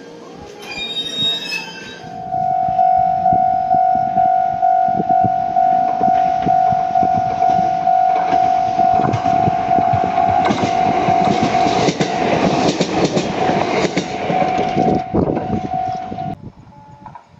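E129 series electric train approaching and passing, its running noise and wheel clatter building to a peak in the second half. Over it a steady high tone pulses about twice a second and cuts off suddenly near the end.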